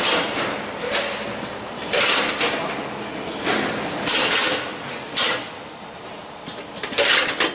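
A packaging machine running, with irregular sliding swishes and clatters over a steady faint high whine.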